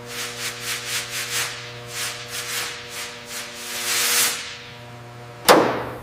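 Repeated rubbing or sanding strokes on a surface, about four a second at first, then slower, with a longer stroke about four seconds in. A sharp knock near the end. A steady low hum runs underneath.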